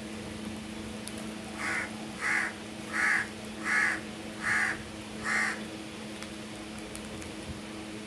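A crow cawing six times in an even series, about one call every 0.7 seconds.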